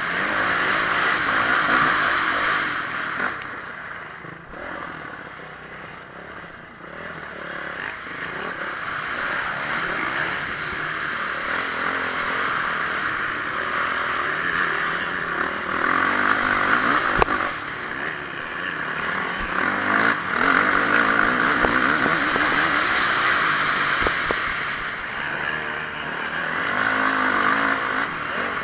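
Honda CRF450R motocross bike's single-cylinder four-stroke engine running hard, easing off for a few seconds near the start and then pulling back up. A sharp knock about two-thirds of the way through.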